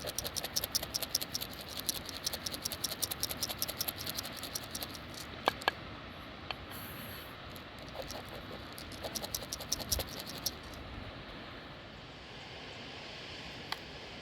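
A fast, fairly even run of light clicks or taps, about six to seven a second, for the first few seconds. A few sharper scattered clicks follow over a steady low hiss.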